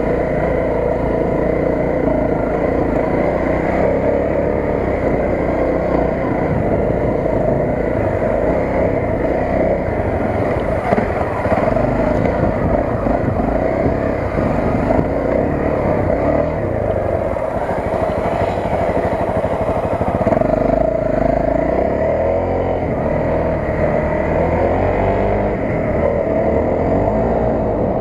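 Honda CRF250 dirt bike's single-cylinder four-stroke engine running under way, its pitch rising and falling as the throttle is opened and closed.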